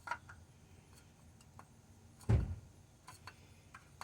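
Light clicks and taps with one dull thump a little over two seconds in, from hands fitting a new oil filter under a vehicle.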